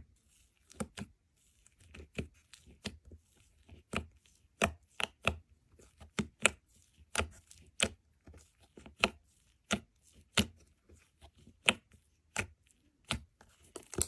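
Short, sharp chopping or cutting strokes, about two a second at an uneven pace.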